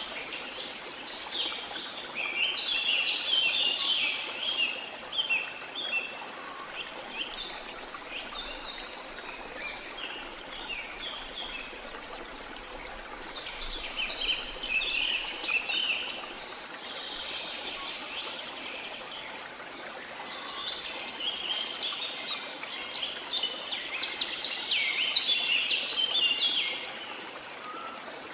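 Steady rush of flowing water from a waterfall, with birds singing over it in three spells of rapid, high chirping notes: one at the start, one about halfway, and a longer one near the end.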